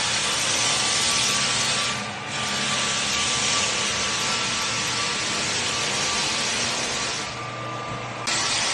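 Power tool running steadily on wood with a loud, even hiss. It dips briefly about two seconds in, then drops for about a second near the end before coming back abruptly.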